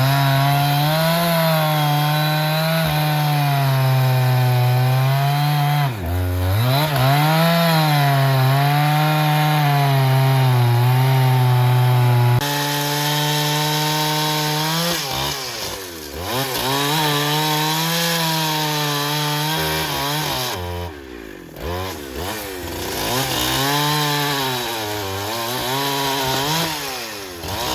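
Motor-driven saw cutting through a black teak log, its engine pitch sagging and picking up again as the blade takes the load. The sound changes abruptly about halfway through.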